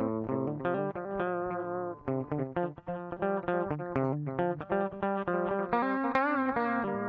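Electric guitar played through an MXR 113 digital delay pedal: a quick run of plucked notes, with one note wavering in pitch about six seconds in.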